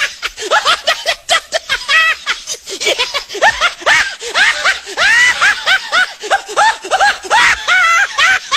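Rapid, high-pitched snickering laughter: one short rising-and-falling note after another.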